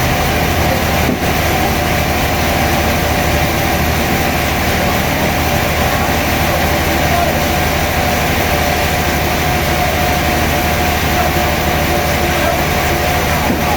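Sawmill machinery running: a loud, even mechanical noise with a steady tone in it.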